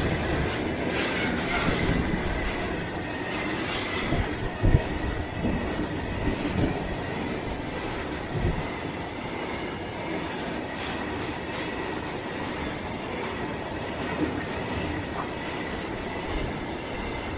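A freight train of BTPN petroleum tank wagons rolling past close by, a steady rumble and rattle of wheels on rail under a faint, steady high wheel squeal. A few heavier knocks come between about four and nine seconds in, the loudest near five seconds.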